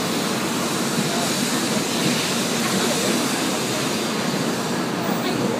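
A Tokaido Shinkansen train moving along the platform, its wheels and motors making a steady running noise with a low hum.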